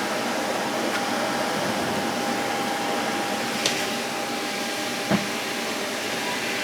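A steady, machine-like whooshing noise with a faint constant whine, broken by a short click and then a heavier knock about five seconds in.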